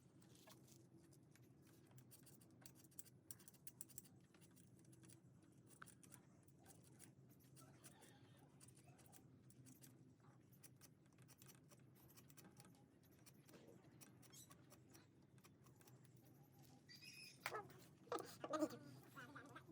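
Near silence with a faint low hum and scattered light clicks, with a cluster of louder clicks and knocks about three-quarters of the way through.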